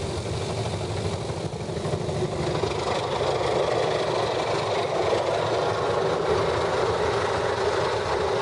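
Steady mechanical hum heard inside a car's cabin: the car's engine idling and its climate fan blowing hot air, while the Ryko soft-touch wash machinery runs with no water spraying yet. The noise grows slightly louder about three seconds in.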